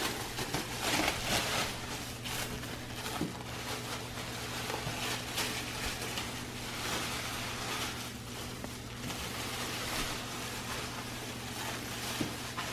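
Thin plastic garbage bag rustling and crinkling in irregular bursts as it is shifted and pulled around a seated person, over a steady low electrical hum.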